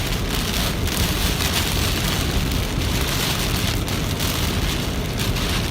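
Heavy rain pelting the car's roof and windshield, heard from inside the cabin while driving, over a low rumble of road and engine.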